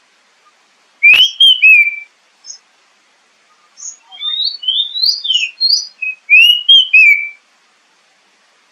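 Oriental magpie-robin (kacer) song played as a lure recording: loud whistled phrases of rising and falling notes with sharp high chips. One phrase comes about a second in, and a longer, more varied run follows from about three and a half seconds to seven.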